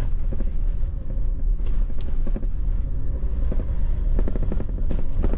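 A vehicle driving on a road, with a steady low rumble of engine and road noise and a few short knocks near the end.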